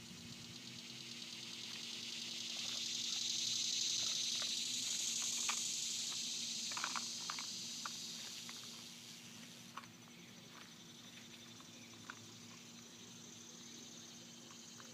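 Insects buzzing in a high, finely pulsing drone that swells over the first few seconds and fades away by about ten seconds in, with scattered light clicks.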